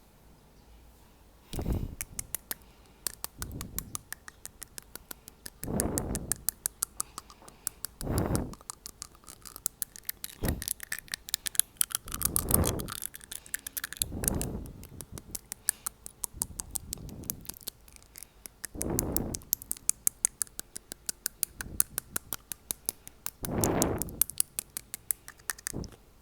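Rapid teeth tapping close to the microphone, several sharp clicks a second, with a short gust of breath blown onto the microphone every two seconds or so.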